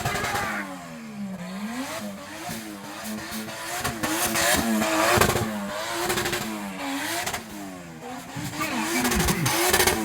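A vehicle engine being revved hard, its pitch climbing and dropping over and over, about once a second.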